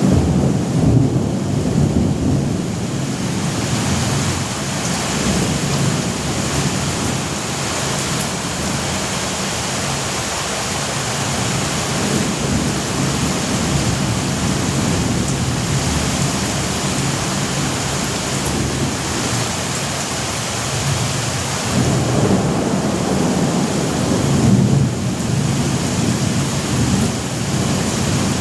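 Thunderstorm: steady heavy rain with low rolling thunder that swells near the start and again about two-thirds of the way through.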